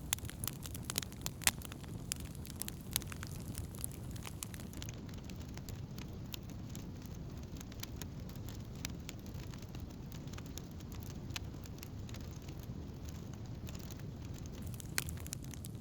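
Wood campfire crackling, with frequent sharp pops over a steady low rumble; the pops come thickest in the first couple of seconds.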